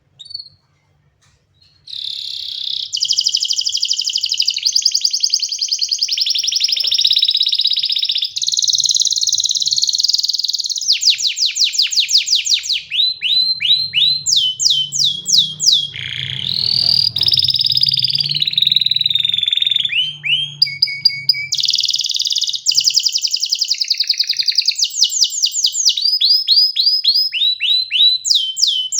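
Domestic canary singing a long song of rapid trills and rolling tours. Each tour is a fast run of repeated notes that changes to a new tour every second or two, with series of sweeping notes and a longer warbling phrase in the middle. The song begins about two seconds in, after a single short chirp.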